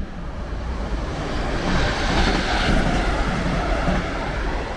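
A Class 319 electric multiple unit passing along the platform, the rumble of its wheels on the rails rising to a peak about two seconds in and easing off slightly near the end.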